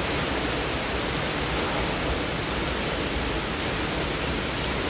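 Hurricane-force wind and driving rain: a steady, even rush of noise with no let-up.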